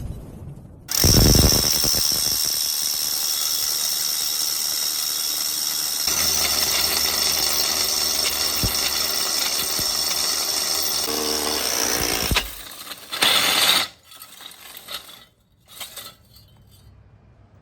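Cordless SDS-plus rotary hammer drill running steadily with a high whine for about eleven seconds, starting about a second in. A shorter burst follows, then it falls quiet.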